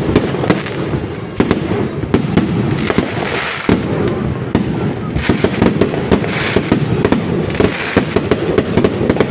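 Fireworks display going off: a dense, unbroken run of bangs, with spells of crackling every second or so.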